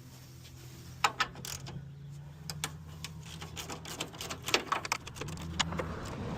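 Irregular clicks, knocks and rattles of plastic clips, fasteners and tools being handled during work on a car's front end, starting about a second in, over a steady low hum.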